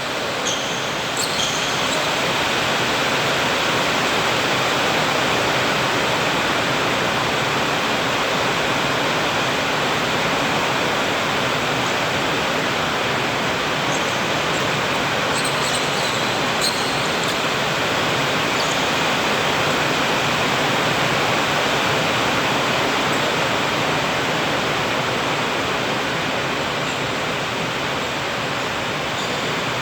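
Steady, even rushing noise with no pitch or rhythm, with a few faint short high-pitched squeaks about a second in and again around the middle.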